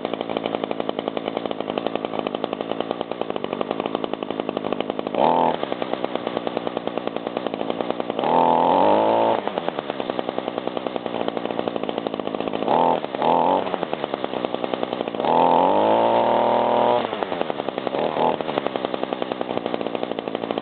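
Echo GT-225 string trimmer's small two-stroke engine, freshly cold-started, idling with a fast even pulse. It is revved up about six times: quick blips, plus two longer revs about 8 and 15 seconds in, each dropping back to idle.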